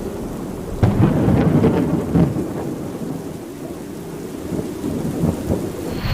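Thunderstorm: steady rain with rolling thunder that swells suddenly about a second in and rumbles on, cutting off abruptly at the end.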